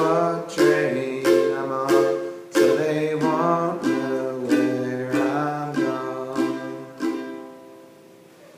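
Ukulele strummed in a steady rhythm, about three strums every two seconds, ending the song; the last chord rings out and fades away near the end.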